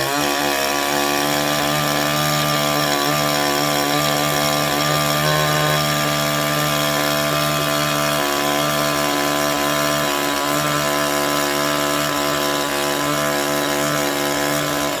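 Chainsaw engine running steadily at high revs, one unbroken note with only slight wavering in pitch.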